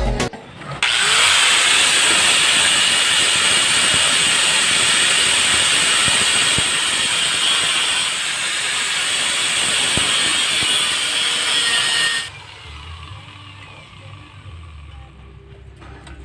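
Honda CRF150 dirt bike running through an aftermarket Kalkal exhaust pipe: a loud, raspy, hiss-like exhaust sound that holds steady for about eleven seconds, then cuts off abruptly to a much quieter background.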